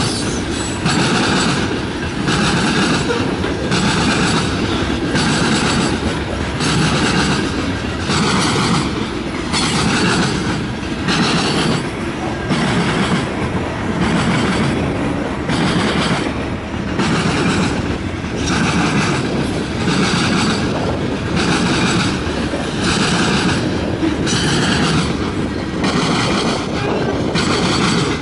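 Freight train of covered hopper cars rolling past close by. The wheels clack in a steady rhythm a little faster than once a second over a continuous rumble, with a faint, thin wheel squeal now and then.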